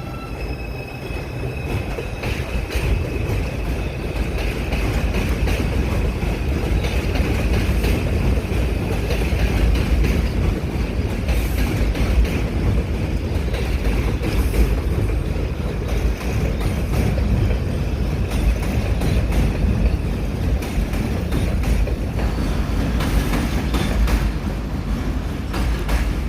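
New York City subway train running through the station, with a heavy rumble of wheels on rail. A steady high squeal sits over it and fades out after about twenty seconds.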